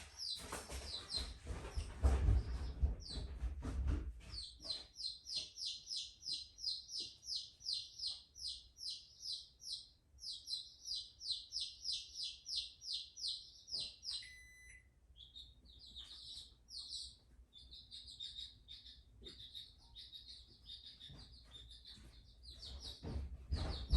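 A bird chirping in a long run of quick, high notes, about three a second. Footsteps and handling knocks come in the first few seconds, and a short high tone sounds about fourteen seconds in.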